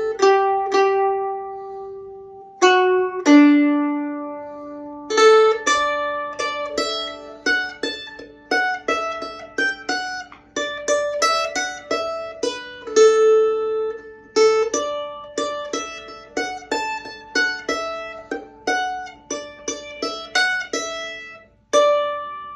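Plucked string instrument playing the melody of a Christmas carol medley in single notes, each ringing and fading. A last note is struck about a second before the end.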